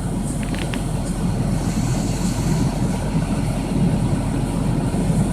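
Steady low rumble of a vehicle engine running, with a few faint clicks about half a second in.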